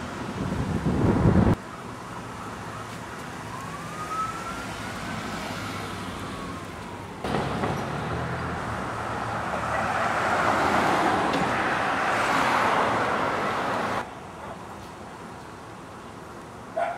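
Street traffic noise with a distant siren wailing once, rising then slowly falling, a few seconds in. A louder low rumble opens, a louder rushing noise builds in the second half, and the background changes abruptly several times.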